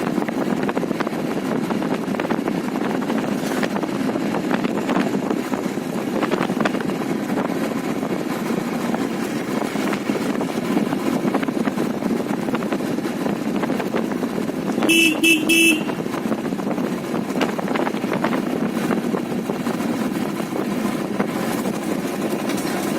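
Steady engine and road noise of a motorcycle ride through traffic. About fifteen seconds in, a vehicle horn beeps a few quick times.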